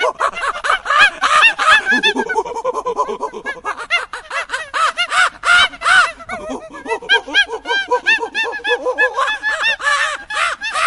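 A troop of monkeys chattering and calling: a dense, continuous run of short, high calls that rise and fall, many overlapping.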